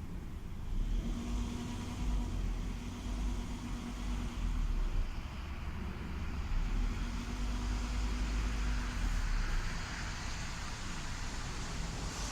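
Mitsubishi Outlander 3 running with a strange hum or grinding noise the owner cannot place. The hum is steady at one pitch and comes and goes twice over a low rumble.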